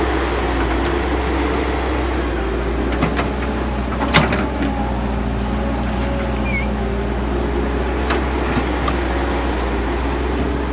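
Caterpillar excavator's diesel engine running steadily under load while digging in mud, with a sharp knock about four seconds in and a few lighter clicks.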